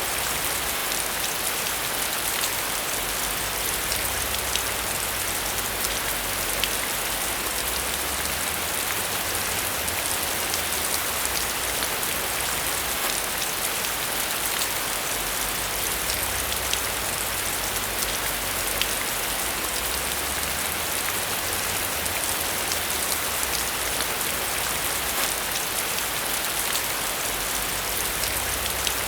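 Steady rain falling: a dense, even hiss with many individual drops ticking through it, and a faint low rumble that swells and fades underneath.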